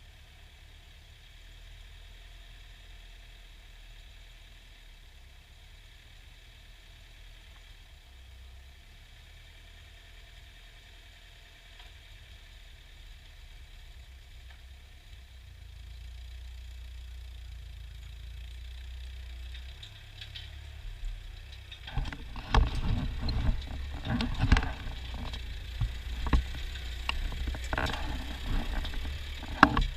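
Ford farm tractor engine running while ploughing, at first a faint low rumble that slowly grows louder. About 22 seconds in it turns loud and uneven, with irregular knocks and rushes of noise.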